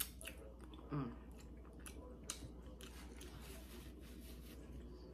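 A person chewing a mouthful of pork chop sandwich close to the microphone, with soft wet mouth clicks and a short falling voice sound about a second in.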